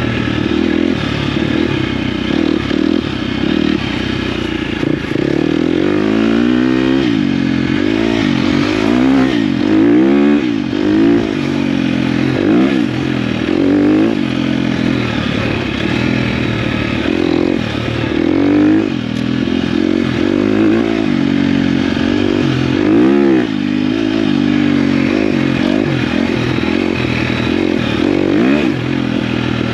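KTM dirt bike engine being ridden off-road, its pitch rising and falling again and again as the throttle is opened and closed.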